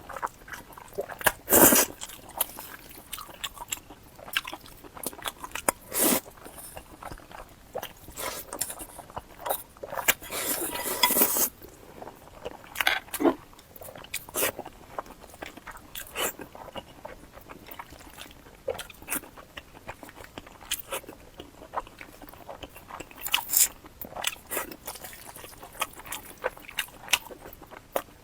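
Close-miked eating sounds of a person biting and chewing, with irregular crunchy clicks and wet mouth sounds, and a denser run of crunching about ten seconds in.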